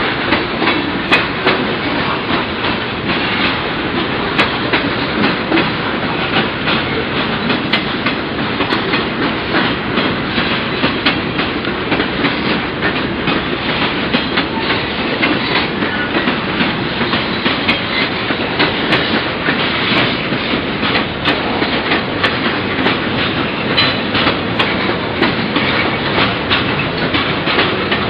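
Freight train cars, covered hoppers and boxcars, rolling past steadily: a continuous rumble of steel wheels on rail, with a running clickety-clack of sharp clicks as the wheels cross rail joints.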